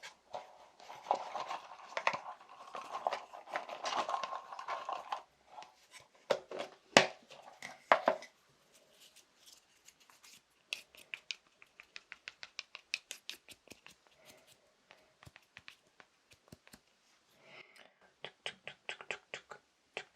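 Fast tapping on assorted small household objects. A dense flurry of rapid taps and scratches for the first few seconds gives way to a few louder single taps around seven and eight seconds, then quick, light taps at several a second from about eleven seconds on.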